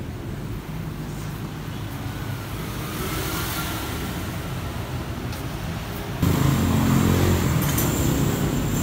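Steady low rumble of passing road traffic. About six seconds in, a louder engine rumble starts suddenly and carries on.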